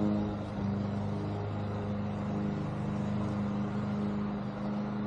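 An engine running steadily at a constant speed, a low even hum that does not change.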